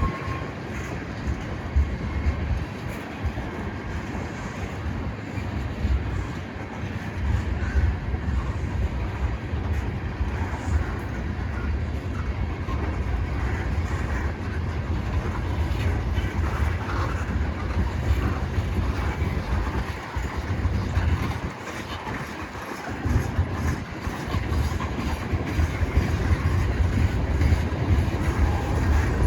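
Freight train cars rolling past: a steady deep rumble of wheels on rail, with clicks and knocks over the rail joints. The sound eases briefly about three-quarters of the way through.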